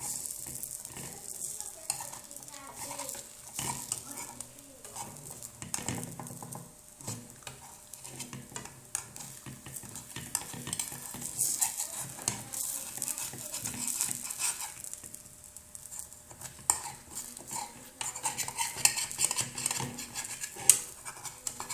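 Kitchen utensil scraping and clicking irregularly against a pan, over a light sizzle.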